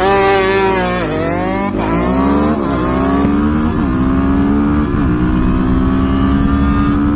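Motorcycle engine accelerating hard at full throttle, its pitch climbing and dropping sharply at each of several quick upshifts in the first five seconds, then holding a steady high pitch near top speed.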